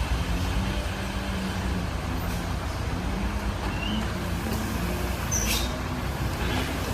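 Heavy road vehicle's engine running with a steady low rumble, with a short hiss about five and a half seconds in.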